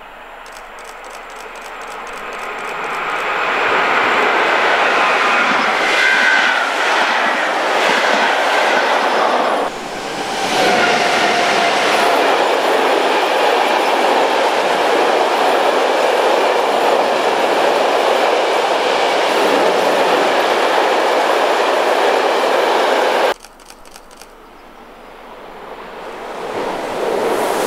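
Trains passing close by on a double-track electrified main line. A train approaches and goes by, then a long freight train of hopper wagons runs past with wheels clattering over the rail joints and some wheel squeal. The sound cuts off suddenly near the end, and an ICE high-speed train is then heard approaching, its noise rising.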